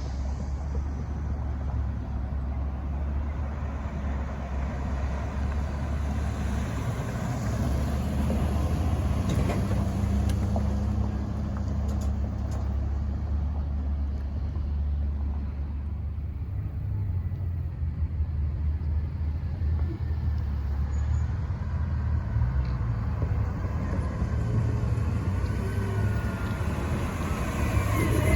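Garbage truck engine running as it drives through the yard, a steady low rumble.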